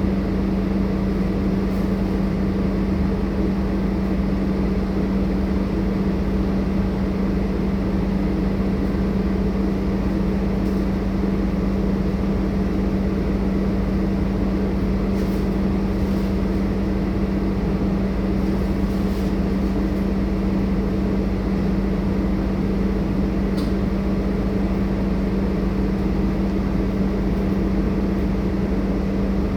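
Scania K230UB single-decker bus's five-cylinder diesel running with a steady drone and a constant hum, unchanging in pitch throughout.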